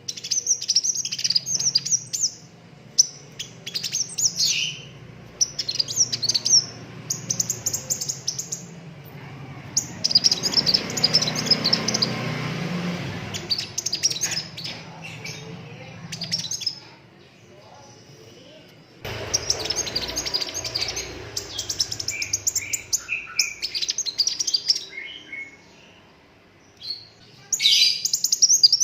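Sunbird singing in fast bursts of high, sharp chirps and rapid trills, phrase after phrase with short breaks and one longer pause about two-thirds of the way through. A low steady hum sits beneath.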